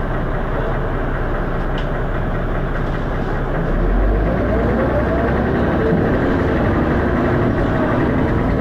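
Dennis Arrow double-decker bus's diesel engine heard from inside the bus, running with a steady deep rumble. About three seconds in, the low end gets heavier and a whine rises in pitch as the bus picks up speed.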